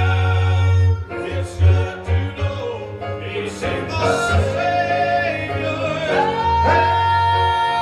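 Southern gospel male quartet singing with instrumental accompaniment and a heavy bass line. A long high note begins about six seconds in and is held.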